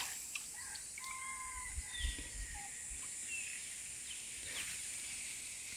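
Quiet pond-side ambience: a few short bird calls and chirps over a steady high-pitched hiss, with a couple of soft low bumps about two seconds in.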